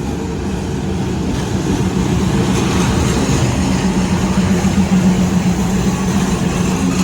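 Diesel train running through the station: a steady engine drone with rail and wheel noise that grows louder toward the middle, then eases slightly.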